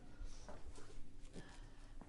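Quiet room with faint handling noises: soft rustles and a few small knocks over a low background rumble.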